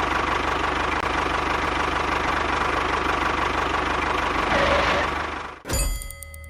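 Small engine running steadily with a fast, even knocking pulse, cutting off abruptly about five and a half seconds in. A few steady electronic tones follow near the end.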